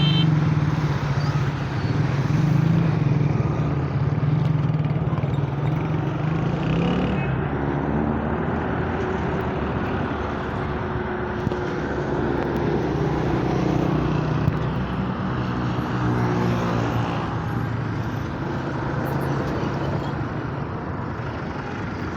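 Large truck's engine running, its pitch climbing about seven seconds in and easing back down later, over a steady rushing noise.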